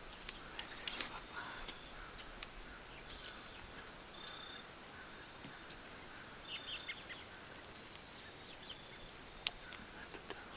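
Faint, scattered bird chirps and short high whistles in quiet woods, with a single sharp click about nine and a half seconds in.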